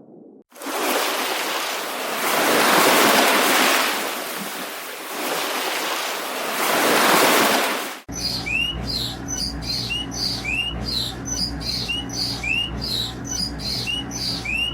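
Waves washing in: a hiss that swells and ebbs twice and cuts off suddenly about eight seconds in. Then a small bird chirps over and over, short rising chirps a little under twice a second, over a low steady hum.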